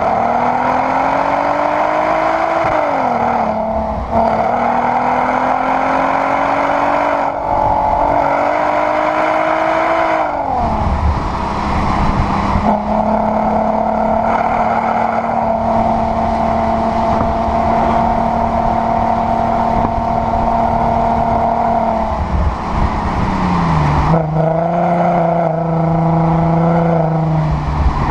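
VW Sharan 7M's R32 3.2-litre VR6 engine through a new exhaust with its valve flap open, accelerating through the gears: the note climbs, drops at a shift about three seconds in, and climbs again until about ten seconds in. It then holds a steady cruising note and settles lower near the end.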